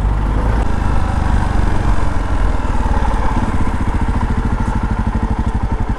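Jawa Perak motorcycle's single-cylinder engine running as the bike is ridden. Its exhaust pulses grow slower and more distinct in the last couple of seconds as it slows down.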